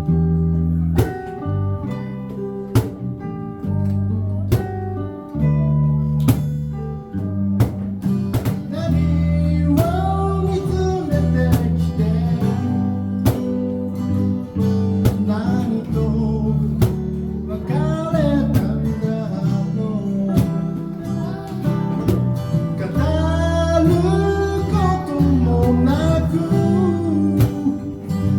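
Live band music led by acoustic guitar strumming chords over a bass line, with a sung or played melody line coming in about nine seconds in.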